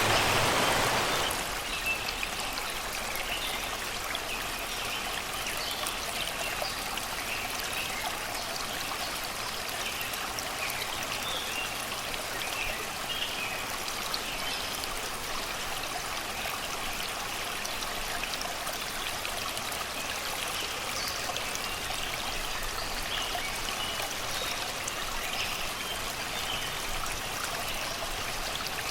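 Shallow river water flowing and babbling over rocks and stones, a steady rushing hiss that is louder for the first second or so and then settles, with forest birds singing short, scattered chirps over it.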